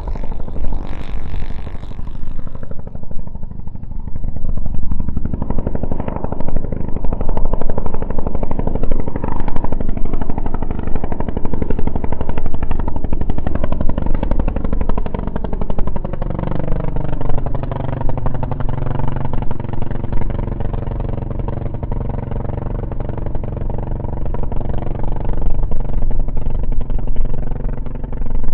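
Zenoah G-62 two-stroke gasoline engine of a large radio-control P-47 model running in flight. About sixteen seconds in its pitch falls and then holds steady at the lower note.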